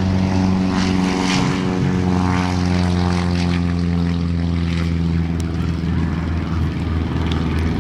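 Propeller airplane's engine running at full power on its takeoff run, a loud steady drone whose pitch falls a little about two seconds in.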